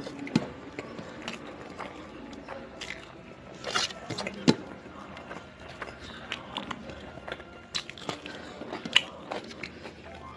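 Eating close to the microphone: chewing and biting, with scattered sharp clicks and crunches.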